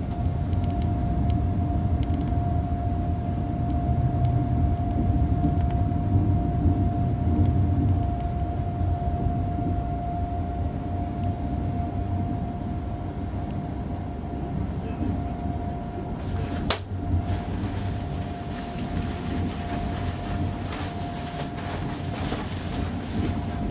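ICE 3 high-speed electric train running, heard from inside the front passenger compartment as it crosses a steel truss bridge: a steady low rumble with a constant thin whine above it. A single sharp click comes about 17 seconds in, followed by lighter clicking and rattling of the wheels on the track.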